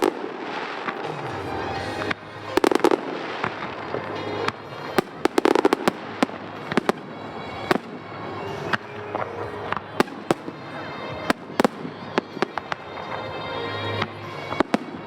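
Fireworks bursting in quick succession: many sharp bangs, some in rapid clusters, with crackling between them, over music.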